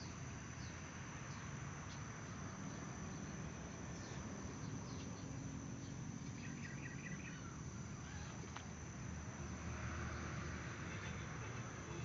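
Insects trilling on one steady high note, with a few short falling chirps scattered through and a low background rumble.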